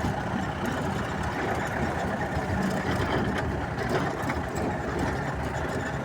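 A vehicle's engine running steadily, with a constant low rumble and road noise.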